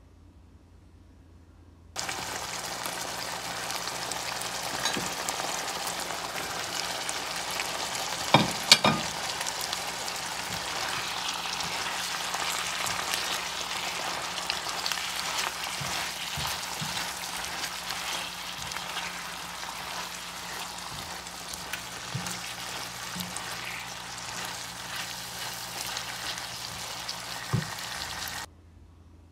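Beef liver with onions and peppers sizzling in a frying pan while it is stirred with a spatula. The sizzle cuts in abruptly and stops abruptly near the end. A few sharp knocks of the spatula on the pan come about eight seconds in, with another near the end.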